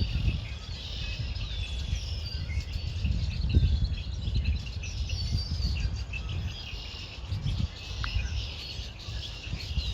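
Many songbirds chirping and trilling together, over a fluctuating low rumble of wind on the microphone.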